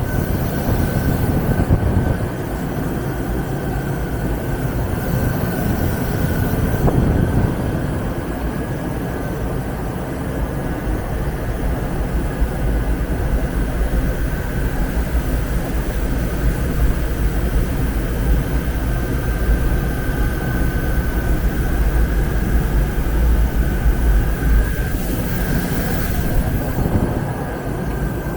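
Wheel-cutting lathe running steadily as it machines a wheel: a low rumble with a steady high whine.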